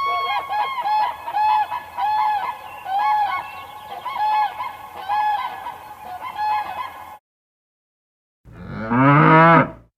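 An animal calling over and over in short, pitched, arching calls, about one and a half a second, which stop abruptly a little past the middle; after a short silence a different, louder and lower animal call sounds near the end.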